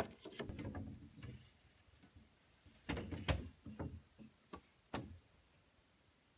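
Irregular knocks and thuds of wood being handled or struck: a cluster at the start, a louder group about three seconds in, and single knocks near four and five seconds.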